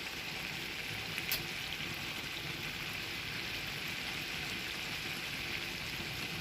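Food sizzling in a pot on the stove: a steady hiss, with a faint click about a second in.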